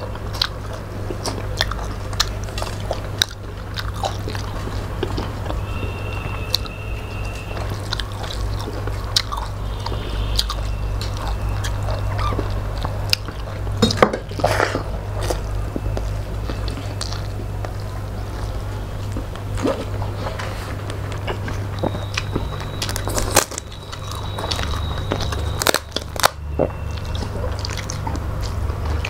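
Two people eating rice and fish curry by hand, close to the microphone: wet chewing and lip smacks, with crunches and fingers squishing rice against steel plates. A steady low hum runs underneath.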